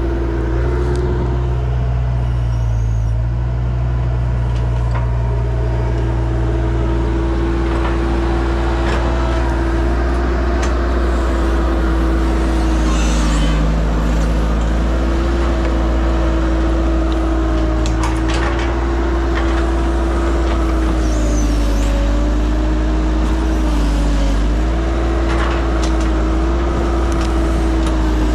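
An engine running steadily at an even speed, giving a loud, constant hum that shifts only slightly in pitch.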